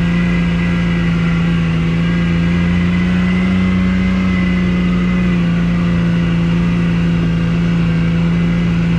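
ATV engine idling steadily, with its pitch rising slightly for a second or two near the middle before settling back.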